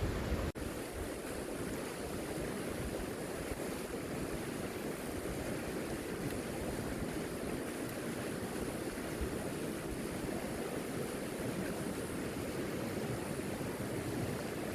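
River water rushing steadily, an even, unbroken sound of flowing water with a brief break about half a second in.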